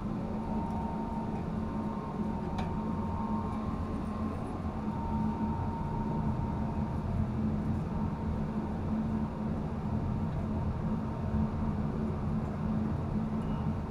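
Steady low machinery drone with a faint whine held over it, unchanging throughout, and one small click about two and a half seconds in.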